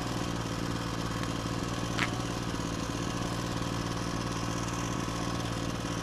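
Portable generator running steadily, with an even engine hum, as it charges a battery. One short sharp click comes about two seconds in.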